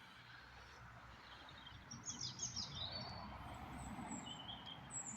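Birds chirping faintly, with a few short chirps and trills starting about two seconds in and high thin calls near the end, over a low steady background rumble.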